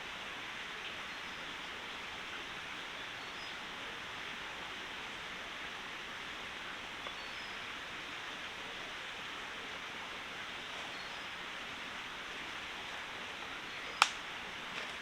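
Steady rushing of a forest stream, with a single sharp knock near the end.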